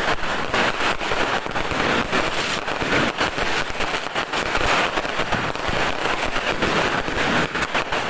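Dense barrage of firecrackers and fireworks, the bangs and cracks overlapping with no pause.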